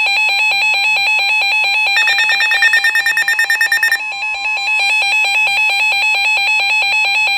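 Electronic severe-weather alert tone: a loud, rapidly warbling electronic alarm that sounds before a spoken weather warning. From about two to four seconds in, a second, buzzier rapid beeping plays over it.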